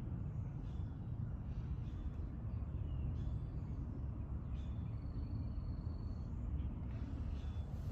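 Faint birds chirping in short high notes over a steady low rumble; about halfway through, one bird holds a thin high whistle for just over a second.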